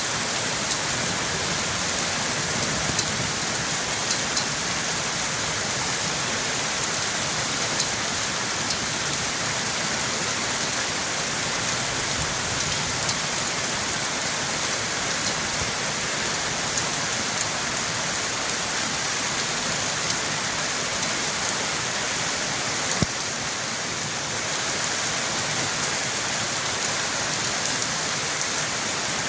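Steady rain falling, an even hiss with scattered individual drop ticks. One brief sharp click about three-quarters of the way through.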